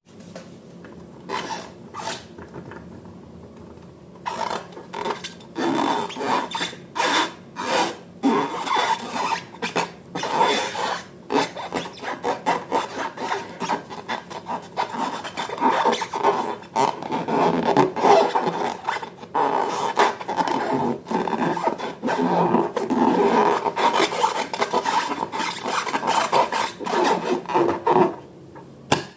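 Slime being kneaded and stretched by hand, giving a dense run of irregular crackles, squelches and rubbing sounds that starts about four seconds in.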